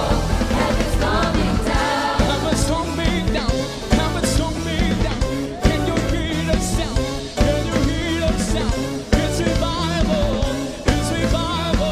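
Choir singing a gospel praise song over a live band with a drum kit.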